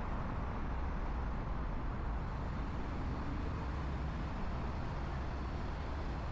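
Steady ambient rumble and hiss with a strong low hum, no distinct events.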